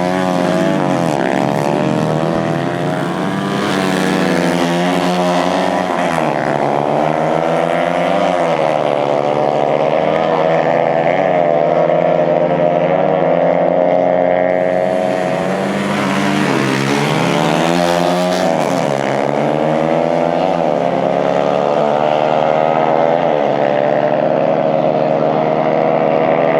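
Dirt bike engines revving, their pitch rising and falling over and over above a steady engine drone.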